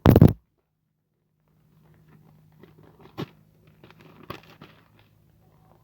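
A loud brief thump right at the start, then scattered light crunching and crackling with a few sharper clicks.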